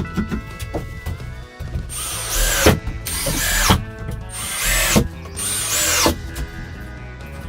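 Power drill running in four short bursts about a second apart, its motor pitch rising as it spins up and falling as it stops, as when screws or holes are being driven into wood.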